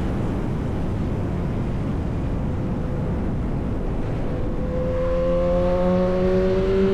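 Yamaha R1 sportbike's inline-four with an SC Project exhaust running under way amid heavy low wind and road rumble. About two-thirds in, its note comes up clearly and climbs slowly in pitch as the bike accelerates.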